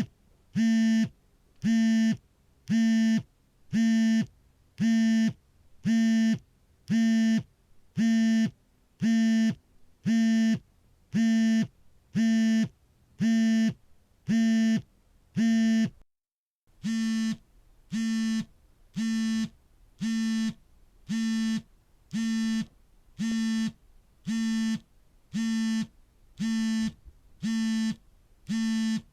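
Smartphone vibration motor buzzing in an incoming-call pattern: short buzzes of about half a second, repeating about once a second. A brief silent gap comes about 16 seconds in, after which the buzzes are a little quieter.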